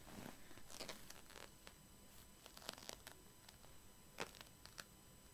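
Faint rustling and a few light clicks and taps from skeins of yarn being handled and held up, with a slightly sharper click about four seconds in.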